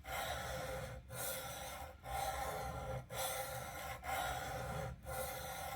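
A block plane blade's bevel being honed on a sharpening stone, rubbed back and forth in steady strokes about one a second with brief pauses between, working up a burr.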